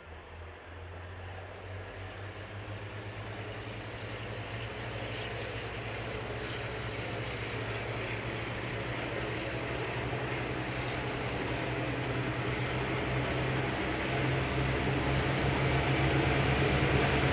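Diesel locomotive engine drawing closer, a low, rapidly pulsing drone that grows steadily louder throughout.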